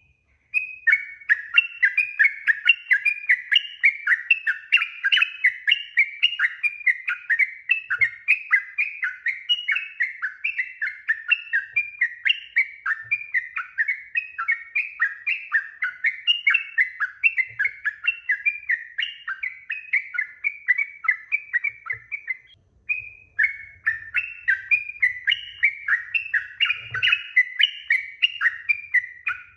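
Sooty-headed bulbul (trucuk) singing a long, fast chattering run of short sweeping notes, about three a second, with one brief pause about three-quarters of the way through.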